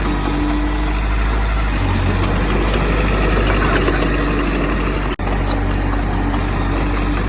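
Heavy diesel engine of earthmoving machinery running steadily, with a momentary dropout about five seconds in.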